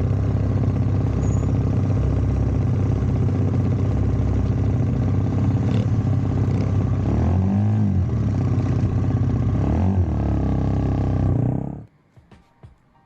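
A small Honda 4-mini motorcycle's single-cylinder engine running while riding, steady, with wind rush. The revs dip and pick up again twice, in the middle and about ten seconds in. The sound stops abruptly near the end.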